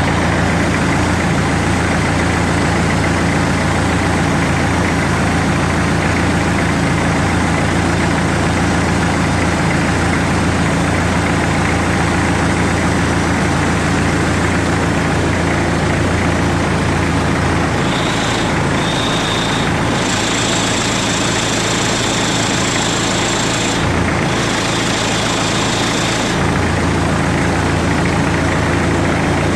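Hyundai D4BH 2.5-litre four-cylinder turbodiesel idling steadily during an oil pressure check. Just past the middle a high whine joins in for several seconds, then stops.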